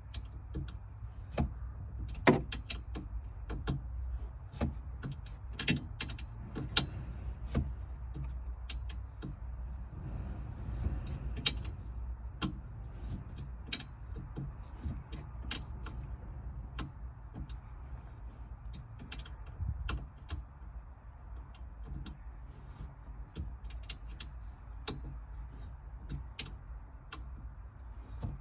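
Hand tools working the bolts of a Jeep roll bar: a string of irregular sharp metal clicks, a few each second, over a steady low hum.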